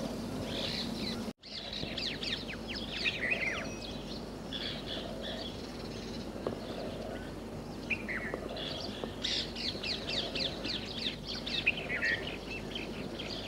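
Small birds chirping and twittering, many quick high notes overlapping in two busy spells, over a steady low background noise. The sound cuts out for an instant about a second and a half in.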